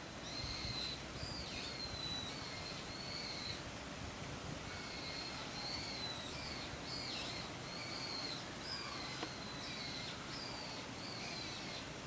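A bird calling over and over: a run of short, high notes, each with a quick slide in pitch, in two bouts with a short pause about four seconds in.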